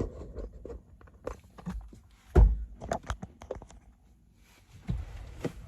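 Handling noise of a phone and windshield phone mount being fitted: a scatter of plastic knocks and clicks, with one heavier thump about two and a half seconds in.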